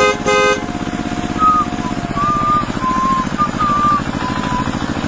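Tractor engine chugging steadily, with two short horn toots at the start and thin, wavering whistling chirps over it from about a second and a half in.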